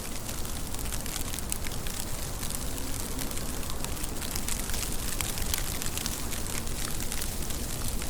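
Steady rain falling: an even hiss with many sharp ticks of single drops.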